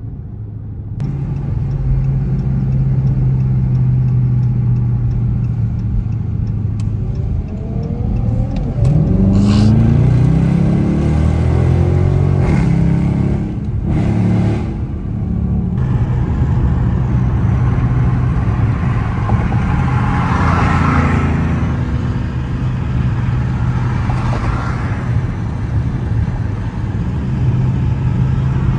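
Dodge Charger R/T's 5.7-litre Hemi V8 running at a steady drone while cruising, then accelerating about eight seconds in with a rising engine note, before settling back to a steady drone.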